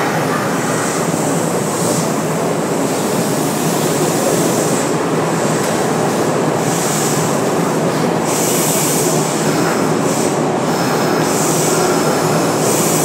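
Kintetsu 9820 series electric train running along the line, heard from inside the car: a steady rumble of wheels on rail, with a high hiss or squeal that comes and goes several times.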